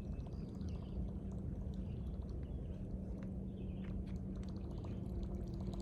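Riverbank ambience: a steady low rushing noise with a constant low hum under it, and a few faint high chirps.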